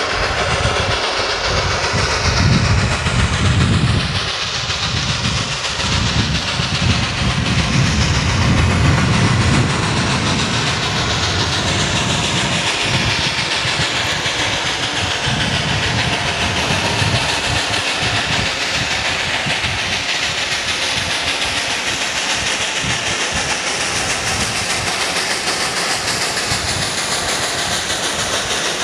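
Train running: a steady, loud rolling noise with low rumbling surges in the first ten seconds.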